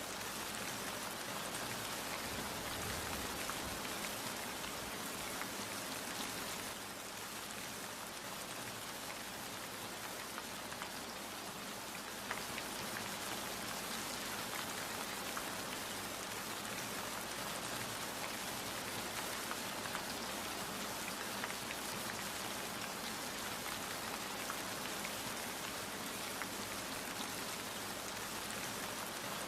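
Steady rain falling, with many separate drops pattering on a surface throughout.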